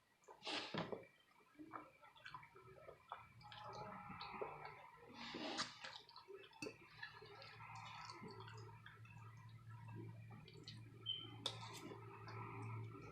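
Close-miked eating of creamy shrimp alfredo: soft wet chewing and mouth clicks, with a brief ringing clink about eleven seconds in.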